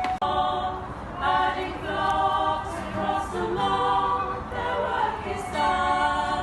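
A group of voices singing together in harmony, unaccompanied, in held notes broken into short phrases.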